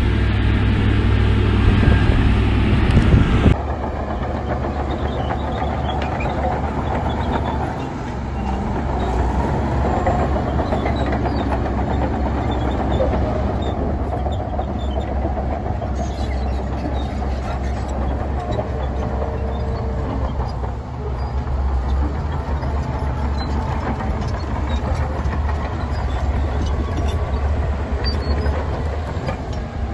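Heavy diesel earthmoving machinery running steadily with a low rumble. The sound changes abruptly about three and a half seconds in.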